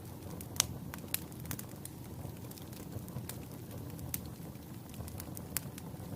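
Wood fire burning in a fireplace: a steady low rumble of flames with frequent sharp crackles and pops from the logs, the loudest pop a little after half a second in.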